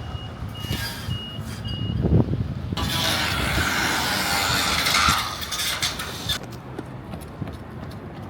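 Street traffic: a vehicle's reversing beeper sounds four short high beeps, then comes a heavy thud, then a loud hiss of air that starts and stops sharply and lasts about three and a half seconds, all over a low traffic rumble.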